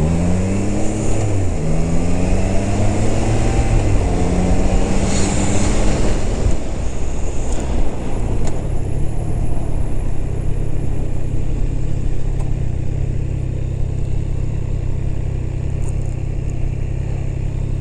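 Motorcycle engine pulling away through the gears, its pitch climbing and dropping back at upshifts about one and a half and four seconds in, then running at a steady low pitch for the rest, with wind noise over it.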